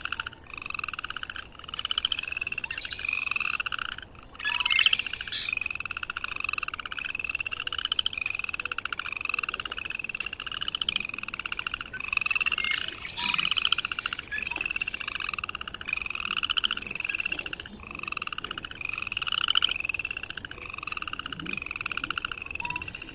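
A chorus of frogs calling, overlapping pulsed trills that repeat about once a second, with a few short high chirps over the top.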